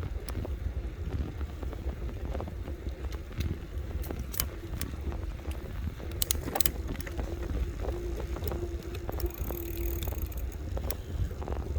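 Electric bike being ridden: a low rumble of wind on the microphone with frequent clicks and rattles from the bike jolting over the surface, and a faint steady whine through the middle stretch.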